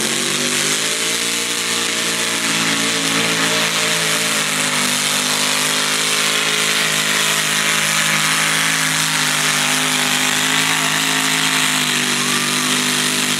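Mini rod pulling tractor's engine running at full throttle through a pull, its pitch climbing in the first second and then holding high and steady. It cuts off abruptly near the end.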